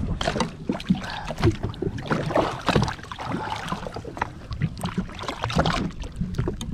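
Water slapping and splashing around a jet ski, with irregular knocks and handling sounds and wind on the microphone.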